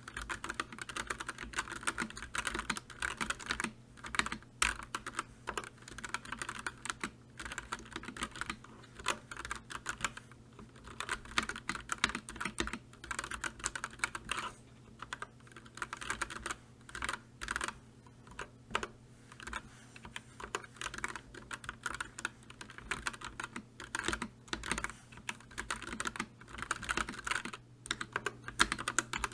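Fast, continuous typing on a computer keyboard: a dense run of key clicks with short pauses between bursts, over a faint steady low hum.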